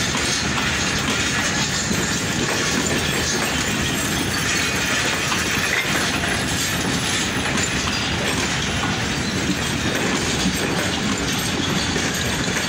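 Pakistan Railways passenger coaches rolling past, a steady noise of steel wheels running on the rails.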